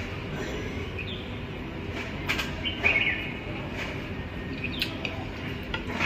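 A few short bird chirps, spaced a second or two apart, over light clicks and taps from eating with the hands.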